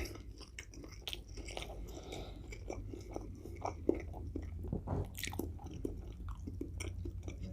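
A person chewing a mouthful of a bacon Quarter Pounder close to the microphone: irregular wet chewing clicks and smacks.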